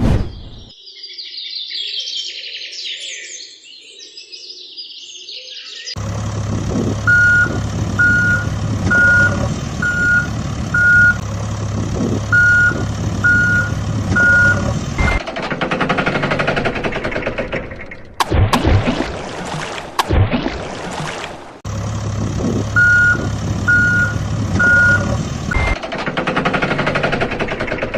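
A truck's reversing alarm beeping about once a second over a steady engine hum, in two stretches. Chirping like birdsong comes before it, and rushing, sweeping noises come between the stretches.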